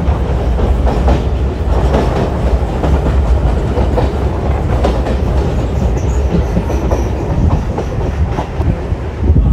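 Electric local train running along the line, heard from its open doorway: a steady low rumble with irregular clickety-clack of the wheels over the rails.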